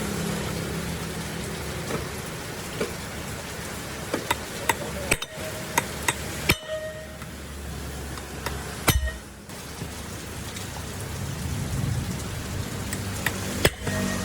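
Steady hissing noise with scattered sharp clicks and taps; the hiss breaks off abruptly a few times.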